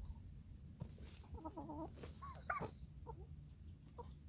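Domestic poultry calling in the pen: a warbling call about a second in, a louder rising-and-falling call near the middle, then a few short clucks, over a steady low rumble.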